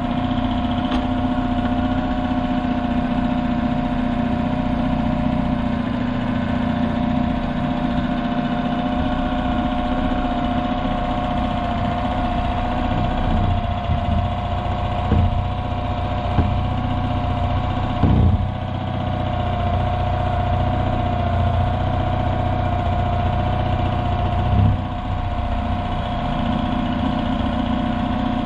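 Petrol outboard motor, newly fitted, idling steadily after a pull start. A few short, dull knocks sound over the engine, mostly in the second half.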